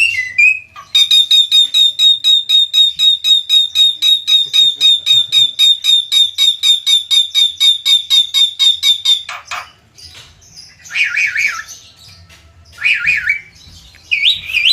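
Javan myna calling: a long, rapid run of identical harsh notes, about five or six a second for some eight seconds, in the konslet style. Then a single falling note and a few shorter warbled phrases.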